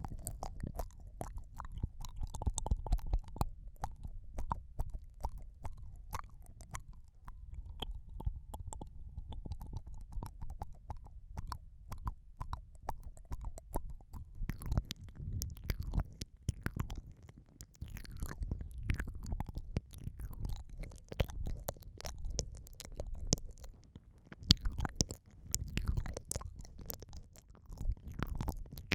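Wet mouth sounds right at the microphone for ear eating: lips and tongue licking, sucking and smacking in an irregular run of wet clicks over a low, muffled rumble.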